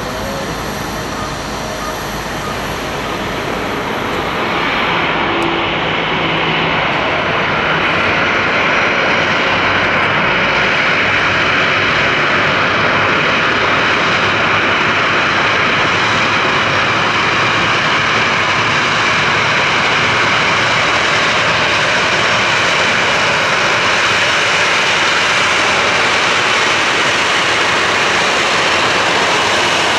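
Boeing 737-800 jet engines running at taxi power: a steady jet rush and whine that gets louder about four seconds in and then holds.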